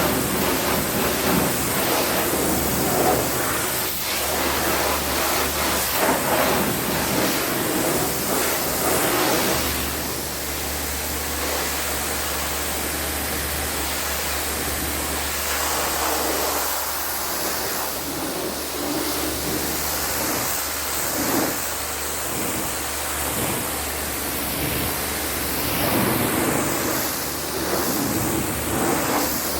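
High-pressure cleaning spray hissing steadily against the car, its sound shifting as the jet moves over the surfaces, over a steady low motor hum.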